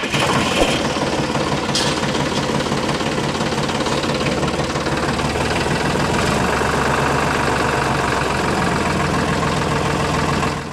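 The DIY mini tractor's small motor running steadily with a rapid knocking chug. It cuts in abruptly and stops abruptly near the end.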